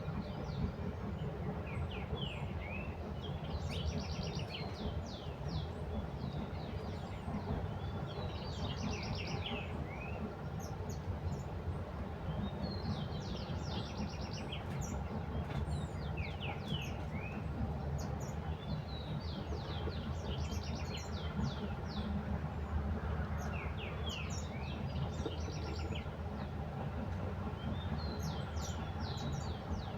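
Small birds chirping in quick bursts of high, rapid notes every few seconds, over a steady low rumble.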